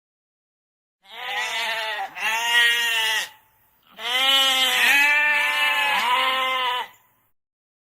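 A farm animal bleating in two bouts of wavering calls, the first starting about a second in and the second after a short pause, each bout made of two or three calls run together.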